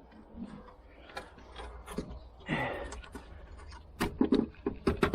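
Irregular metal clicks and knocks of hand tools at work on a car's strut assembly, with a short burst of noise about two and a half seconds in and a cluster of louder knocks near the end.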